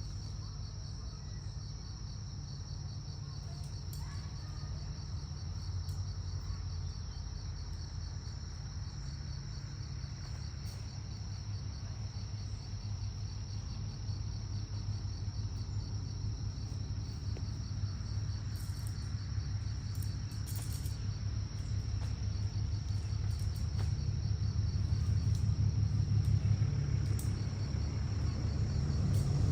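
Insects trilling steadily in a high, fast-pulsing chorus over a low rumble that grows gradually louder toward the end.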